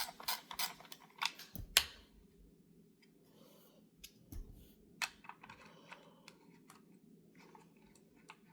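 Ratchet clicking in a quick run of short strokes while backing out a small screw, ending in one sharper click about two seconds in, followed by scattered light clicks and taps of tools and small metal parts.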